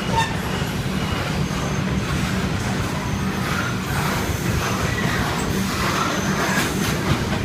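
Unloaded coal train rolling slowly past on the track: a steady rumble with a few light clicks from the empty wagons.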